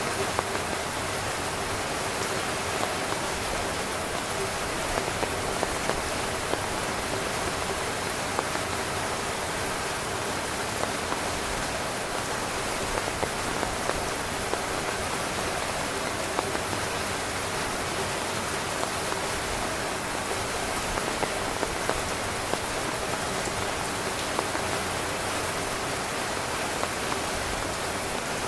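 Heavy rain drumming steadily on a tent, a dense hiss sprinkled with many small sharp drop taps.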